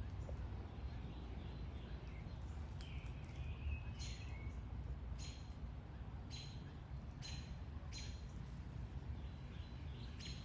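A bird calling repeatedly with short, sharp calls about a second apart, after a few softer chirps, over a low, steady background rumble.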